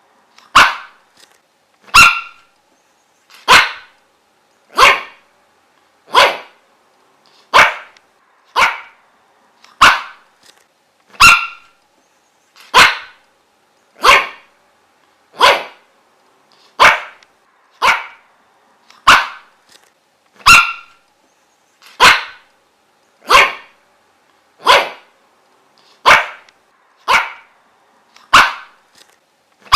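A dog barking single sharp barks at a steady, even pace, about three barks every four seconds.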